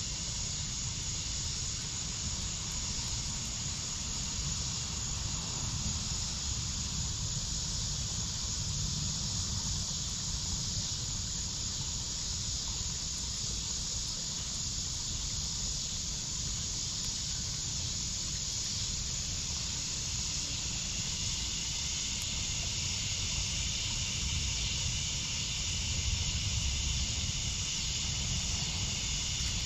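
Crickets chirring in a steady, even chorus over a low, constant rumble, with no clear crackles or pops.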